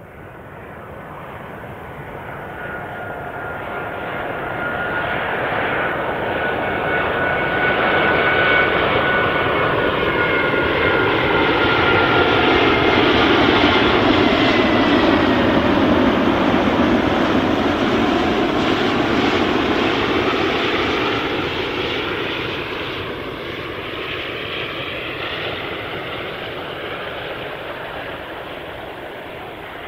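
Jet airliner passing by at an airport: its engine noise swells to a loud peak about halfway through, then fades. Thin whining tones in the engine noise drop in pitch as it goes past.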